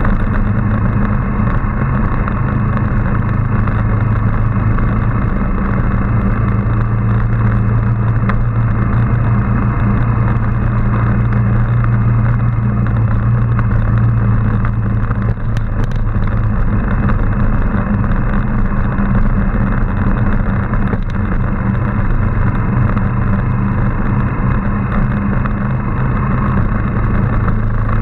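Motorcycle engine running steadily while being ridden, its low hum holding nearly even pitch, under a constant rushing noise.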